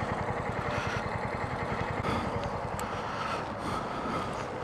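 Suzuki TU250X's single-cylinder engine running, heard from the rider's seat, with an even low pulsing beat that eases off in the second half.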